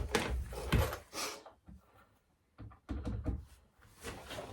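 Wooden knocks and thuds from boards being handled and fitted, several in the first second or so, then a few lighter clicks about three seconds in.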